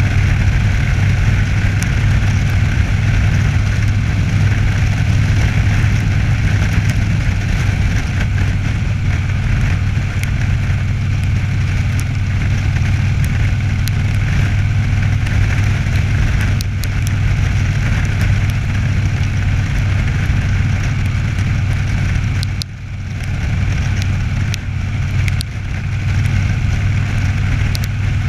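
Cruiser motorcycle engine running steadily at cruising speed, heard from the rider's seat along with wind and road noise. The engine sound dips briefly once, well past the middle, then comes back to the same steady note.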